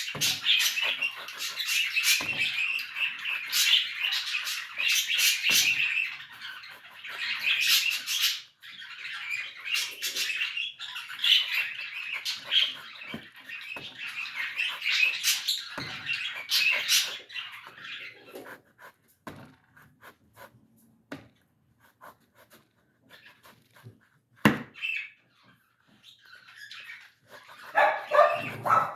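Small birds chirping and chattering rapidly and almost without pause, which thins out after about 18 seconds to scattered short chirps and clicks. A lower, louder animal sound comes in just before the end.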